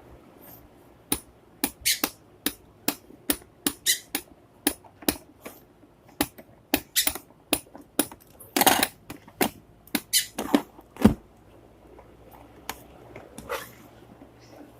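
A run of short, sharp squeaks and clicks, irregular at about two or three a second, stopping about eleven seconds in.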